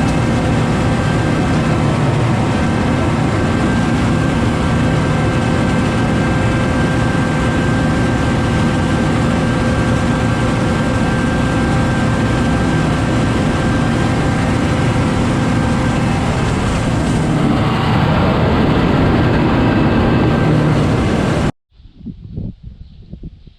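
Tractor engine running steadily and loud, with a constant drone and a few steady tones over it. It cuts off abruptly near the end, leaving faint, scattered sounds.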